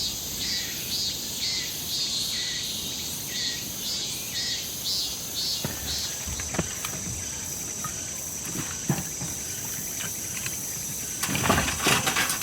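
Insects chirping in a repeating pulse about twice a second, giving way after about five seconds to a steady high trill. A few knocks and a louder burst of clatter come near the end.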